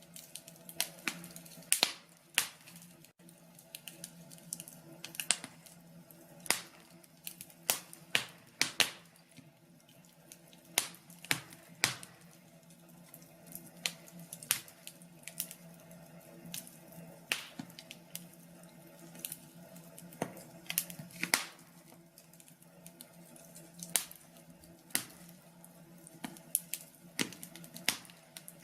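Wood fire crackling in a fireplace: irregular sharp snaps and pops, a few a second at times, over a faint steady low hum.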